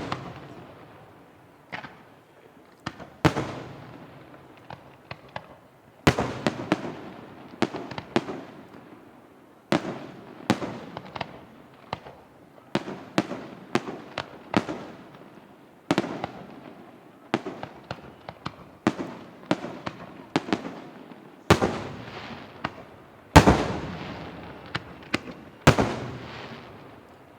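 Large aerial firework shells bursting in a rapid irregular series of loud booms and bangs, each followed by a rolling echo, with several heavy reports standing out in the second half.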